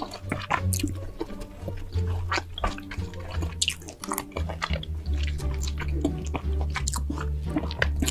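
Close-miked chewing with many short wet mouth clicks from a person eating roasted pork belly, over background music with a steady low bass line.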